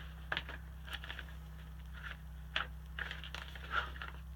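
Scattered light handling noises, a few short clicks and rustles, over a steady low hum.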